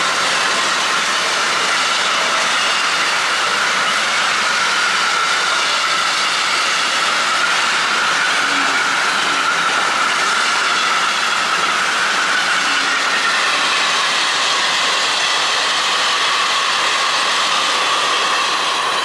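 A long freight train of empty stake flat wagons and powder silo wagons rolls past at a steady speed. The wheels on the rails make a continuous rolling rattle, with a high, slightly wavering tone over it.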